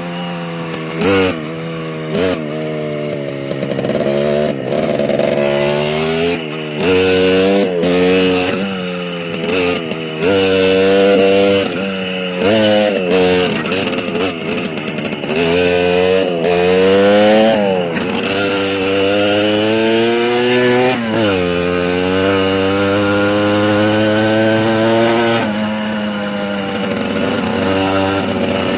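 Small motorcycle engine on a ride, its pitch climbing and then dropping sharply again and again as it is revved and shifted up or backed off. A steadier, lower engine note runs underneath.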